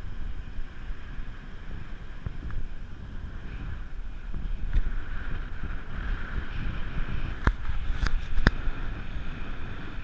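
A boat under way, with wind buffeting the microphone over a steady low rumble. Three sharp clicks or knocks come near the end.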